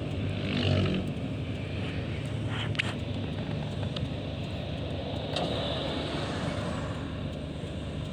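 Steady low rumble of engines, with a few brief faint clicks.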